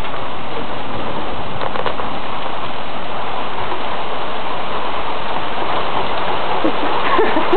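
Heavy rain pouring down, a steady loud hiss of rain on the ground and surfaces, with faint voices near the end.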